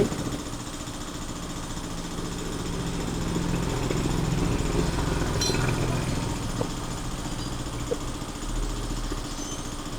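An engine running steadily, growing louder for a few seconds around the middle and then easing off, with a couple of small clicks.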